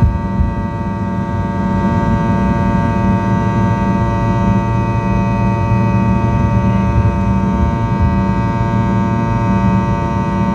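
Fokker 100 jet airliner during takeoff, its rear-mounted Rolls-Royce Tay turbofans running steadily at high power. The sound is a steady whine of many held tones over a heavy low rumble, with no change in pitch.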